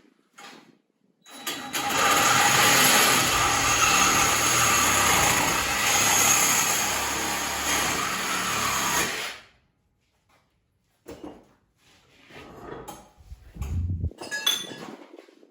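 A power tool cutting or grinding steel tubing runs for about eight seconds, spinning up at the start and winding down at the end. Scattered knocks and clanks of metal parts being handled follow.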